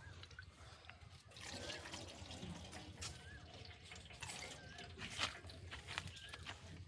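Faint trickling and dripping of liquid, with a few light clicks over a low steady hum.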